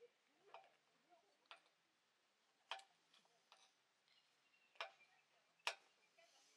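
Faint, sparse clicks and ticks at irregular intervals, about six in all, the loudest near the end, over near silence.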